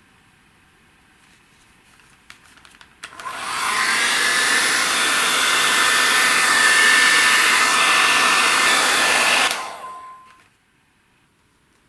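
Handheld air dryer switched on, its motor whine rising as it spins up, then blowing steadily for about six seconds before it is switched off and winds down.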